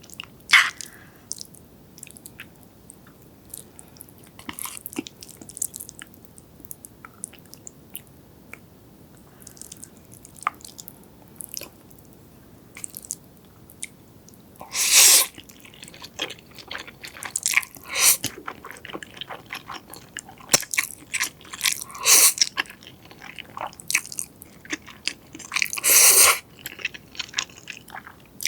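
Close-miked chewing and biting, sparse and soft at first, then several louder crunchy bites in the second half.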